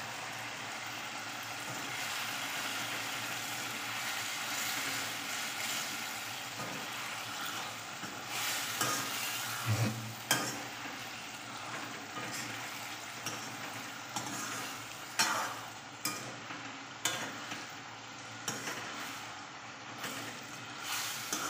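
Tomato and pea curry sizzling steadily in a frying pan while a steel spoon stirs it. The spoon knocks and scrapes against the pan several times in the second half.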